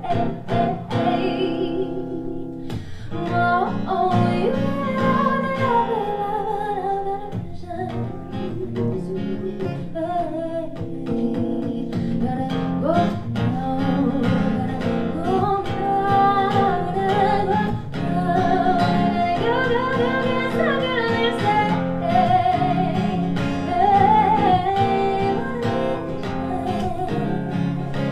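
A singer performing a song to strummed acoustic guitar.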